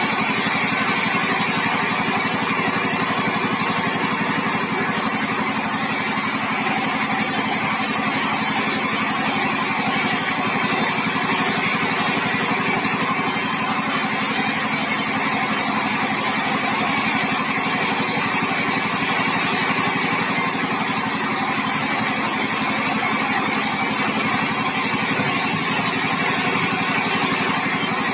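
Band sawmill machinery running steadily, a continuous engine-like drone.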